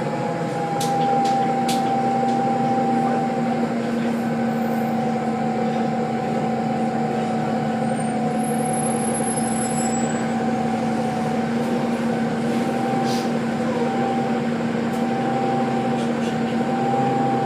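Tedom C12G CNG city bus running at a steady speed: an even engine and drivetrain drone with a held whine that barely changes pitch, and a few light rattles near the start.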